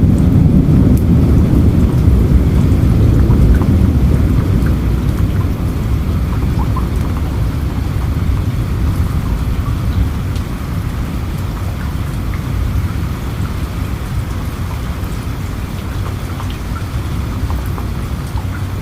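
Steady rain falling, with a low rumble of thunder that fades away over the first several seconds.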